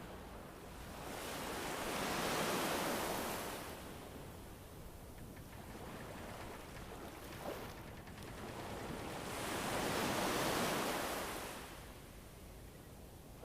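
Ambient rushing noise that swells slowly twice, each swell building and fading over about three seconds, some eight seconds apart, like gusts of wind or waves breaking on a shore.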